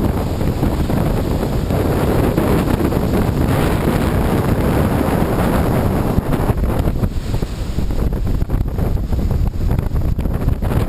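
Strong storm wind buffeting the microphone over the rush of surf breaking on the beach, swelling and easing in gusts.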